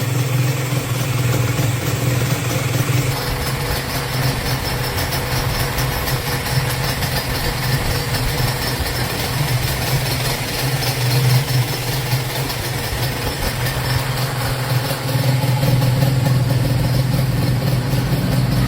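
Honda NSR SP single-cylinder two-stroke motorcycle engine idling steadily through its exhaust.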